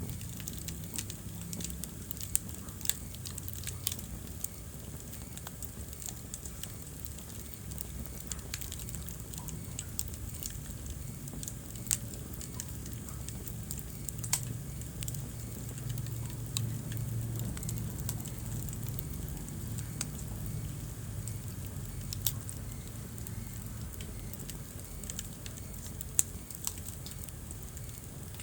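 Wood fire burning in a fireplace: a steady low rumble of flames under frequent small crackles and pops, with a few louder snaps scattered through.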